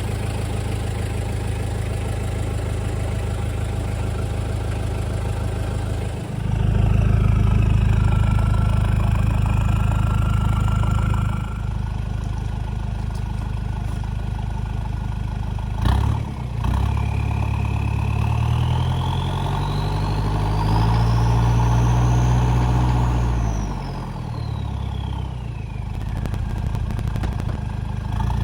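Toyota 1KZ 3.0 L four-cylinder turbo diesel idling through a 3-inch stainless steel turbo-back exhaust, revved up twice: about six seconds in for several seconds, then again from about eighteen seconds, each time with a turbo whine that rises with the revs and falls back as it settles to idle. A single click sounds about sixteen seconds in.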